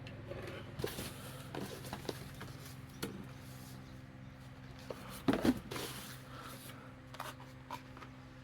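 Rustling, light clicks and knocks of items and packaging being handled, loudest about five seconds in, over a steady low hum.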